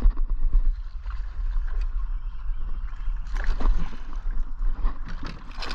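Water sloshing and gurgling around a kayak, with scattered knocks on the hull that come more often after about three seconds, over a steady low rumble.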